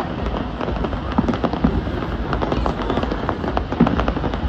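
Fireworks going off: a dense run of sharp pops and crackles in quick succession over a steady low rumble.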